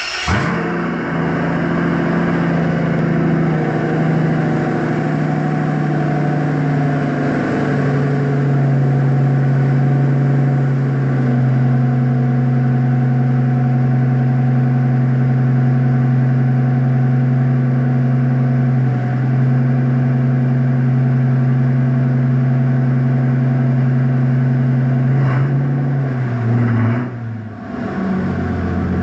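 Mercedes-Benz S600 twin-turbo V12 with a straight-pipe exhaust, just after a cold start, running at a fast cold idle. The idle pitch steps down twice as it settles, then wavers and dips near the end.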